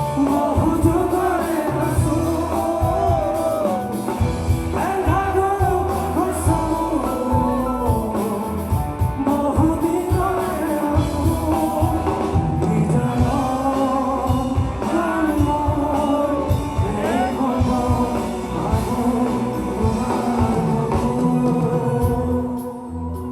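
Live band music with a singer's voice carrying the melody over drums and bass. The level drops near the end.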